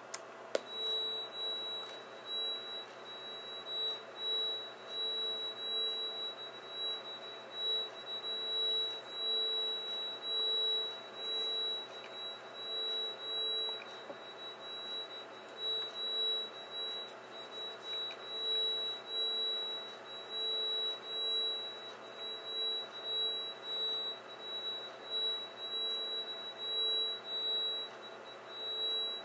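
Played-back recording of a droning hum: a steady high tone over a lower tone that pulses on and off irregularly, the level swelling and fading every second or two.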